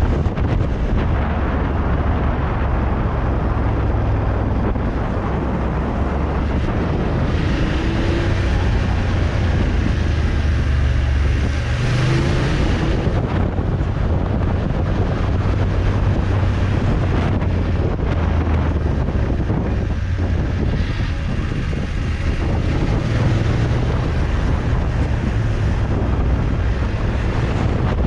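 Motorcycle engine running as the bike rides along, its low hum shifting with the revs, under heavy wind noise on the microphone.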